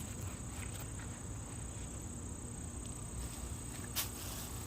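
Steady high-pitched chirring of insects, with one sharp click about four seconds in.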